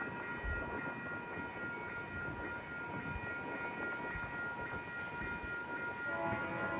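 GO Transit commuter train rolling slowly through a curve, its running noise carrying a steady high-pitched squeal of wheels on the curved track. Near the end a second chord of lower steady tones joins in.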